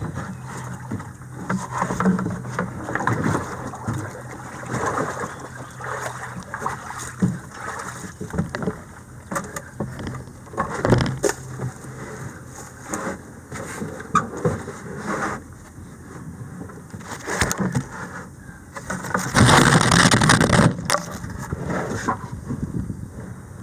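Kayak being paddled: irregular paddle splashes and knocks against the hull, with a louder rushing burst of about a second and a half near the end.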